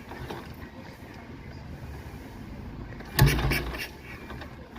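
Vintage motorcycle being started, with one loud, brief burst about three seconds in as the engine coughs but does not catch.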